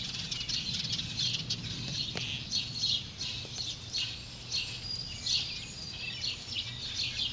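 Small birds chirping in short high bursts, about two a second.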